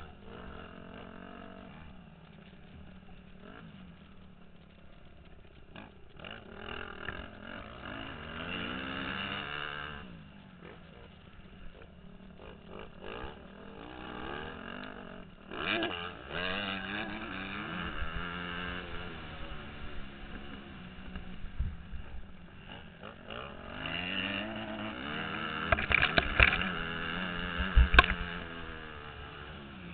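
Motocross dirt bike engine revving hard, its pitch climbing and dropping again and again as the rider works the throttle and gears, under a rush of wind noise. A few loud thumps near the end.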